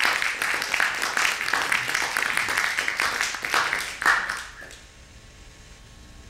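Audience applauding, dying away about four and a half seconds in to quiet room tone.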